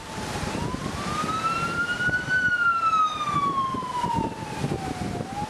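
Warning siren wailing: its pitch climbs for about two seconds, falls slowly for about three, then begins to climb again near the end. Wind buffets the microphone underneath.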